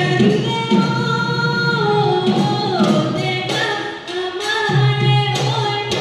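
Live song over a PA system: a singer holding and sliding between long notes over a band accompaniment with a steady drum beat.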